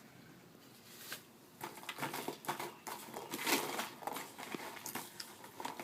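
A child imitating an ostrich eating: an irregular scatter of soft clicks, rustles and mouth noises, busiest in the middle.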